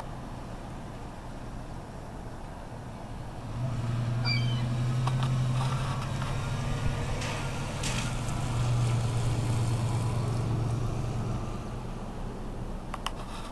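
A vehicle engine running with a steady low hum, louder from about four seconds in until near the end, with a few short faint high calls of gulls and scattered clicks over it.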